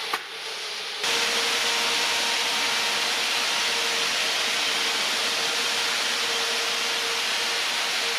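Steady machine noise in a workshop: an even hiss with a faint hum, after a short knock, growing suddenly louder about a second in and then running evenly.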